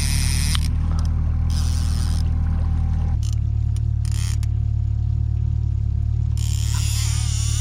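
Boat motor running steadily under way, its pitch shifting about three seconds in as the engine speed changes. A hiss rides on top and comes and goes.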